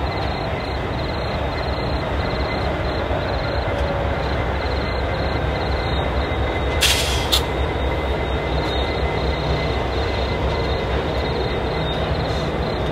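Freight train passing behind diesel locomotives: the locomotives run and the wagons roll over the rails in a steady rumble. Two sharp knocks come about seven seconds in.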